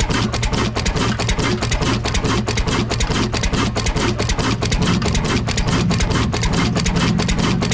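Old Ruston double-flywheel diesel engine running steadily, its exhaust beats even at about five or six a second over a low hum.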